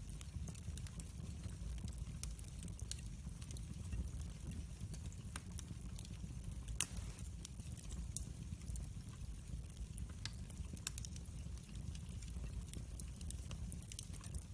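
Wood fire crackling: scattered sharp pops and snaps over a low steady rumble, with one louder pop about seven seconds in.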